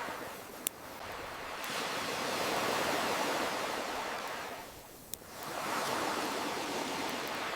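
Ocean waves washing in and receding in slow swells, with two sharp campfire pops, one under a second in and one about five seconds in.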